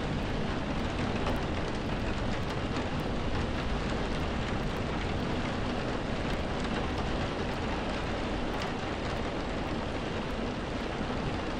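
Steady rain falling, a continuous even patter with faint individual drop ticks and a low rumble beneath.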